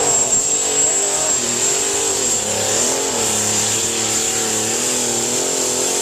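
Pulling tractor's engine revving up and down in repeated waves, with a steady high-pitched whine over it.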